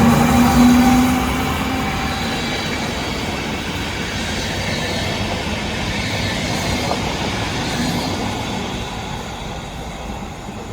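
Siemens Vectron electric locomotive pulling a RegioJet train away from the platform: a steady electric whine from the locomotive fades in the first couple of seconds, then the rolling noise of the passing coaches, with some wheel squeal, slowly gets quieter.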